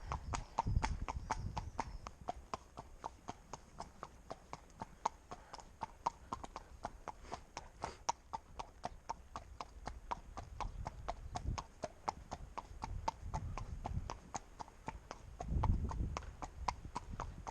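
Connemara pony's hooves clip-clopping on a paved road at a steady walk, about four hoofbeats a second. Gusts of wind rumble on the microphone now and then, strongest about a second in and again near the end.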